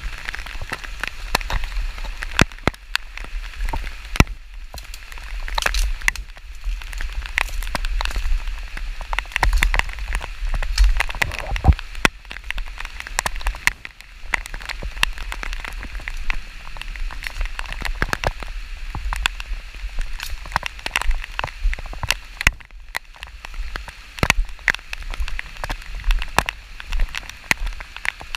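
Rain falling steadily, with many close raindrops ticking irregularly and a steady low rumble underneath.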